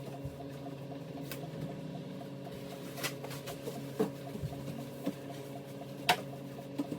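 A few light clinks and knocks, like dishes and utensils being handled, over a steady low hum.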